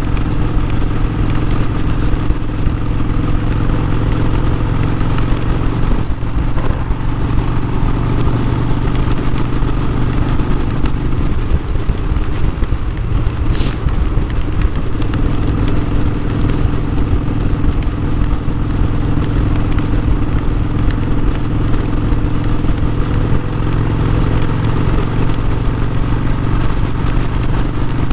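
Harley-Davidson Sportster 1200's air-cooled V-twin engine running steadily. Its note blurs for a few seconds about halfway through, then settles back, with a single sharp tick in the middle.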